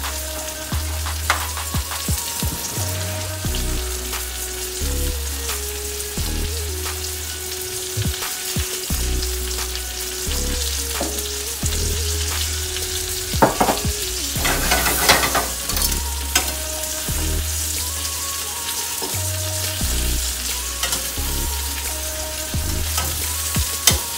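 Egg-battered chicken cutlets sizzling and crackling as they shallow-fry in oil in a stainless steel skillet, with a louder flare of noise around the middle. Soft background music with a repeating bass line plays underneath.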